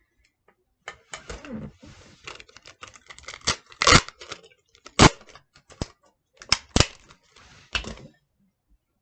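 A pen drawing on paper: irregular scratchy strokes with several sharp taps and a brief squeak, stopping about eight seconds in.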